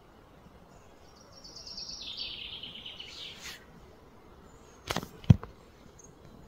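A bird's rapid trill of short high notes that steps down in pitch partway through, lasting about two seconds, over a faint outdoor background. About five seconds in come two sharp knocks, the second one the loudest sound.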